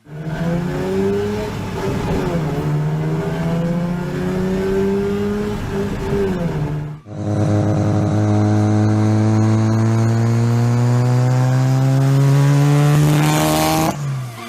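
Rotary-engined car running under load. Its engine note wavers up and down, then after a break about halfway through it climbs slowly and steadily, as in a long pull through one gear, and drops away just before the end.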